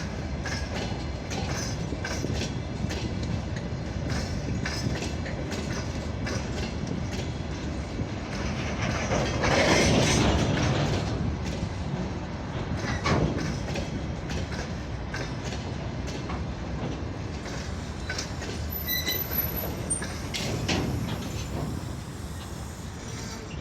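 Freight train rolling past, its wheels clicking over the rail joints in a steady clickety-clack, loudest about ten seconds in. A brief high-pitched wheel squeal comes a little before the last few seconds.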